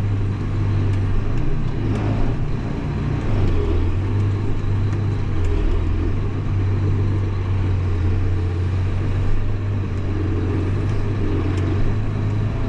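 New Holland T8030 tractor's six-cylinder diesel engine running steadily with a deep hum, heard from inside the cab.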